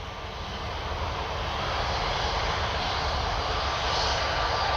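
Jet engines of a taxiing Airbus A320 airliner: a steady rumble and hiss that grows louder over the first two seconds as the plane approaches, then holds.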